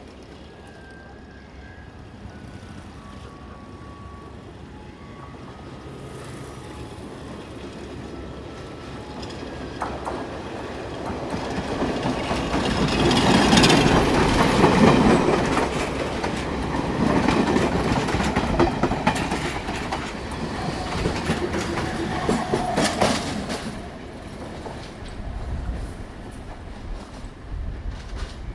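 A train approaches and passes close by, its wheels clacking over the rail joints. The sound builds gradually, is loudest about halfway through, and fades over the last few seconds.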